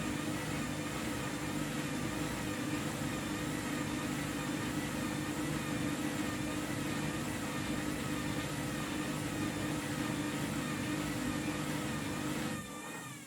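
Washing machine spinning at speed: a steady motor hum and a whine that wavers slightly in pitch. The sound drops off sharply near the end.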